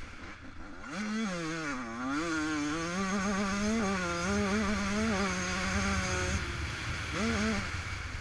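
Yamaha YZ125 single-cylinder two-stroke motocross engine revving under riding, heard from the rider's helmet with wind rush. The revs climb about a second in, dip, hold high for a few seconds, then drop off a little after six seconds, with a short throttle blip near the end.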